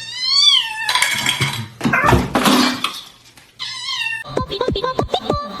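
A cat meowing twice: a long meow that rises and then falls at the start, and a shorter one about four seconds in, with bursts of noise between them. Music with a quick beat comes in near the end.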